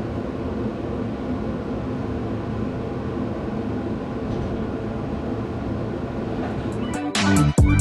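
A steady low rumbling noise, then electronic music with a heavy beat starts near the end.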